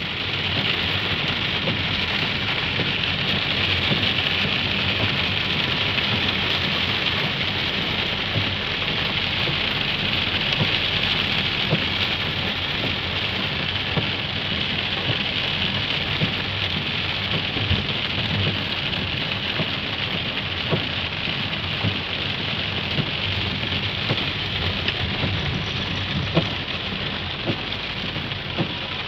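Heavy rain falling on a car's roof and windshield, heard from inside the car: a steady, dense patter with many scattered sharper drop hits.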